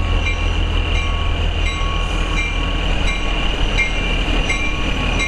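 Narrow-gauge diesel locomotive running with a steady low drone as the train pulls in, with a sharp ringing strike repeating about every two-thirds of a second.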